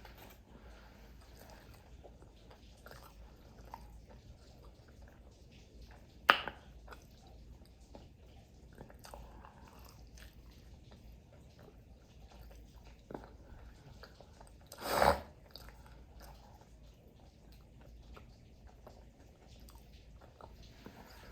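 A person chewing and biting food, quiet mouth sounds throughout. There is one sharp click about six seconds in and a louder, half-second bite or crunch around fifteen seconds.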